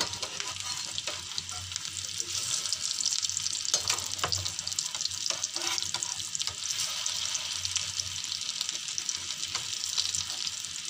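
Shami kababs coated in beaten egg sizzling and crackling steadily as they shallow-fry in hot oil in a metal pan. A slotted spatula scrapes and knocks against the pan a few times in the middle as the kababs are turned over.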